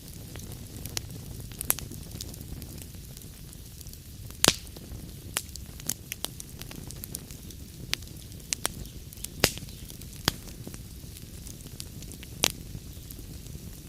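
Wood fire burning in a fireplace: a steady low rumble with irregular sharp crackles and pops, the loudest about a third of the way in, two-thirds in and near the end.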